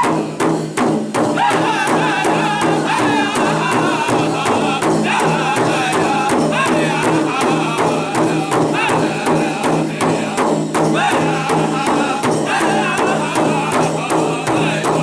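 Powwow drum group singing in high voices over a steady, even beat struck together on a big drum.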